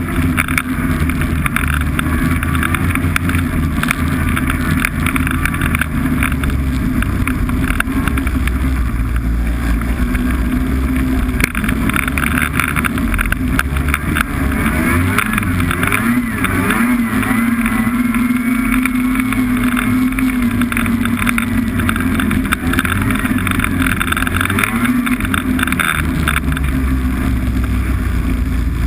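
Snowmobile engine running while under way, its pitch rising and falling through the middle as the throttle changes.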